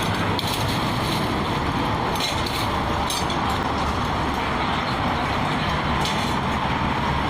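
Steady low rumbling noise like passing road traffic or a running motor, with a few faint clinks.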